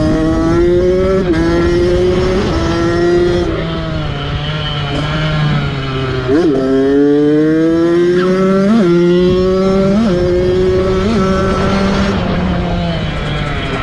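Kawasaki dirt bike engine running under load as it is ridden. Its pitch climbs and sags slowly, broken by several short, sharp throttle blips and drops.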